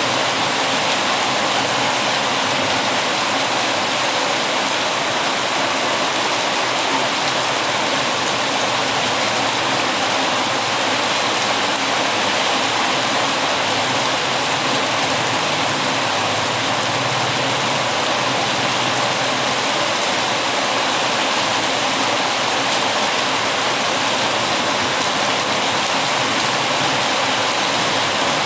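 Heavy rain falling in a steady, even hiss with no breaks.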